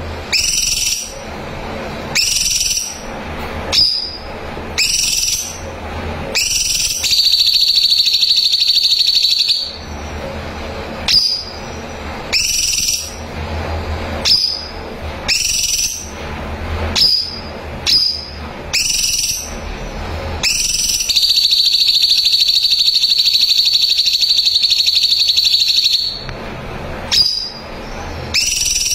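Cucak cungkok singing: short whistled calls, each opening with a rising sweep, repeated every second or two, broken twice by long rapid trills of the kind called 'nembak rapat', one of about three seconds and one of about five seconds. A faint low hum runs underneath.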